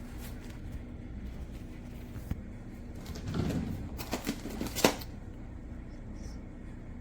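Rustling, then a few clicks and knocks about three to five seconds in, over a steady low hum.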